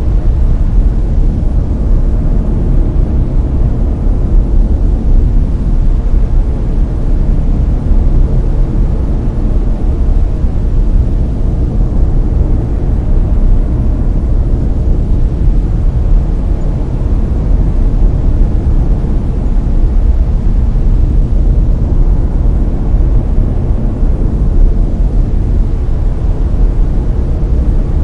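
Layered brown noise: a loud, steady, deep rumbling hiss, strongest in the bass and fading toward the highs, unchanging throughout.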